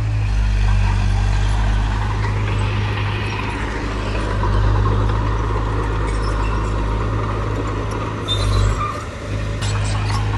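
Heavy diesel earthmoving machinery running with a steady low rumble, the engine note dipping briefly near the end.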